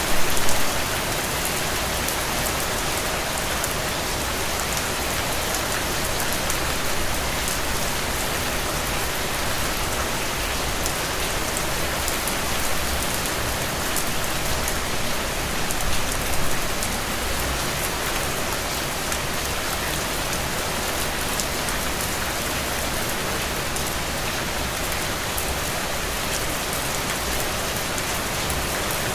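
Heavy, steady rain falling on soil and puddles, a dense even hiss of drops with many sharp individual drop hits, briefly louder just after the start and again about halfway through.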